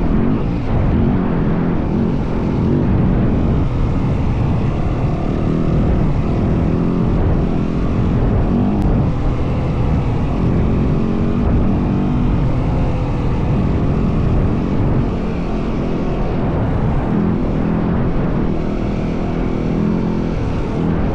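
Yamaha WR450F dirt bike's single-cylinder four-stroke engine running under way, its revs rising and falling a few times.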